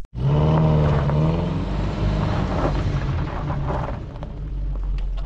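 Motorcycle engine running loudly, cutting in suddenly, its pitch dropping as it eases off about a second in, then running on unevenly.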